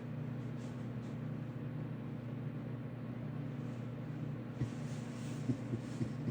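A steady low hum, with a few faint clicks or taps about two-thirds of the way through.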